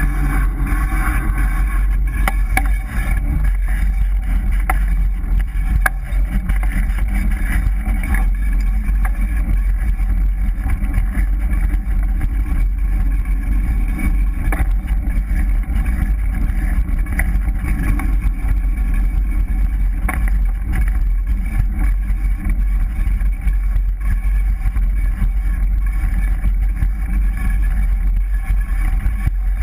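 GT Avalanche 3.0 mountain bike being ridden: a loud, steady rumble of ground and wind noise with a rubbing disc brake and the odd knock. The rubbing comes from a brake disc that is out of adjustment.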